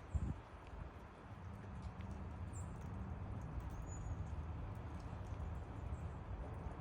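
Steady rain falling through forest trees, an even patter of drops. A low thump just after the start and a few faint high chirps.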